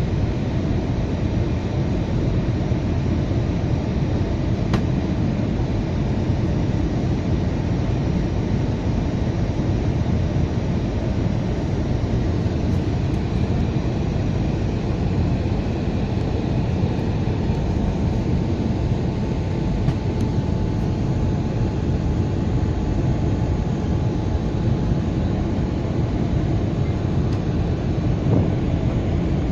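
Steady roar of an Airbus A320's engines and airflow, heard inside the passenger cabin in flight.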